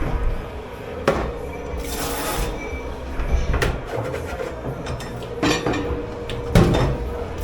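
Dishes, pots and cutlery clattering as they are handled in a commercial kitchen dish pit, with several sharp knocks spread through, over a steady machine hum.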